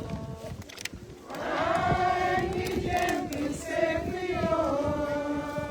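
A group of mourners singing a hymn together in long held notes, with a short break about a second in before the singing carries on.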